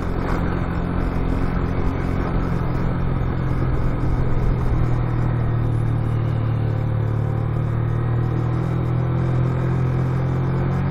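Motorcycle engine running at a steady speed under wind and road noise, getting a little louder about four seconds in.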